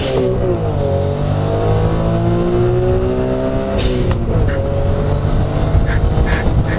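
Suzuki Cappuccino's turbocharged three-cylinder engine accelerating through the gears, heard from inside the cabin. The engine pitch climbs steadily, and at two upshifts, at the start and just under four seconds in, the revs drop with a short sharp hiss from the blow-off valve venting.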